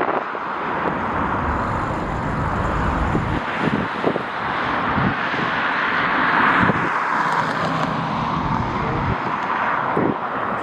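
Jet airliner's engines passing, a steady rushing sound that swells to a peak about two-thirds of the way through and then eases off. Gusty wind rumbles on the microphone underneath.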